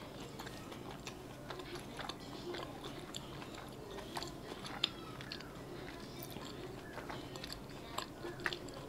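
A person chewing a mouthful of tofu-and-chive dumpling with mouth closed, close to the microphone: quiet, irregular small mouth clicks.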